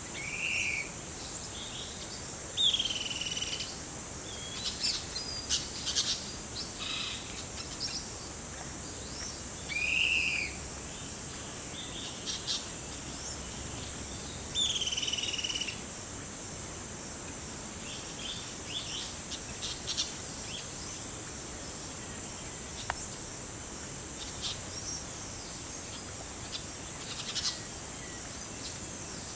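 Forest birds calling over a steady, high insect drone: a curved, slurred call note comes four times, and short chirps are scattered among them.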